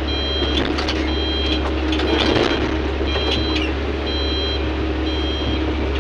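Heavy mining machine's backup alarm beeping steadily, about once a second, over the steady drone of its diesel engine running.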